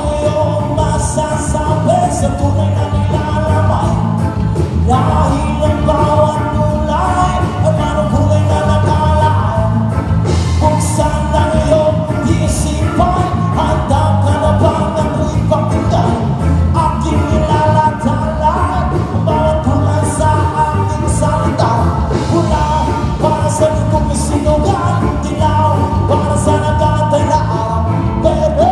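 Live band playing a rock-style song, with a lead singer over the amplified instruments.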